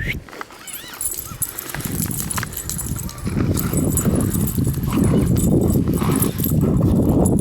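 A husky and a Labrador playing and wrestling in deep snow: a short high whine near the start, then scuffling and crunching in the snow that grows louder.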